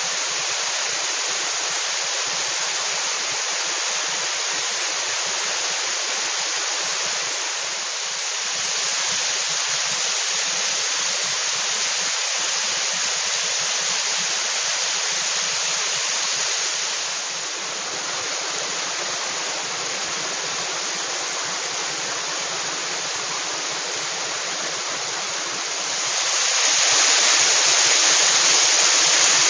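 Waterfall pouring, a steady rush of water that swells and eases slightly and grows clearly louder near the end.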